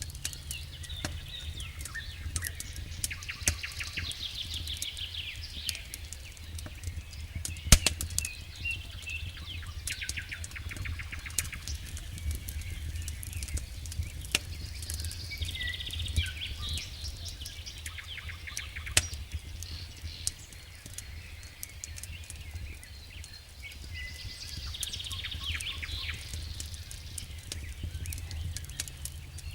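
Wood fire crackling and popping in a fireplace over a low steady rumble, with one sharp loud pop about eight seconds in and recurring spells of fast fine crackle and thin hissing squeaks.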